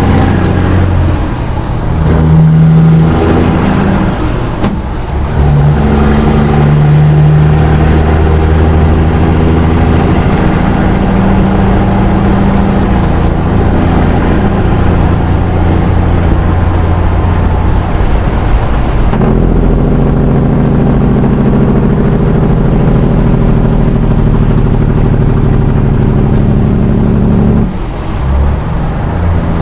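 Semi truck's diesel engine pulling under load, its pitch stepping up and down several times as it goes through the gears, with a high turbo whistle rising and falling along with it. Near the end the engine settles, then drops off.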